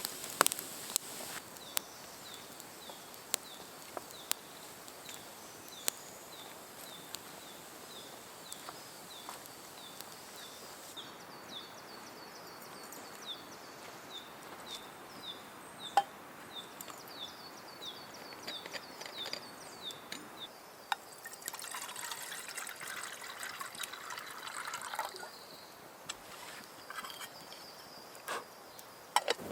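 A bird calling a short, high, falling note over and over, about twice a second, then stopping about two-thirds of the way in. Scattered sharp clicks run through it, and a few seconds of hissing, rustling noise come near the end.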